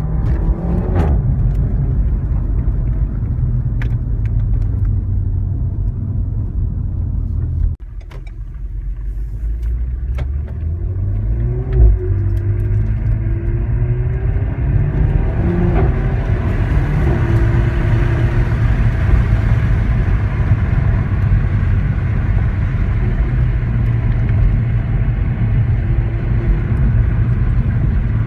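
Renault Mégane RS engine running, a steady low rumble that drops off sharply about eight seconds in, builds back with a brief loud blip near twelve seconds, then settles into a brighter, steady running sound.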